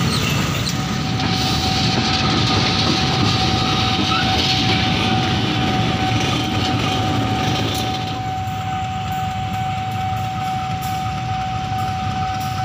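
Diesel-electric locomotive and its train rolling past close by, loud, with a steady high-pitched whine throughout. The rolling noise eases off about eight seconds in.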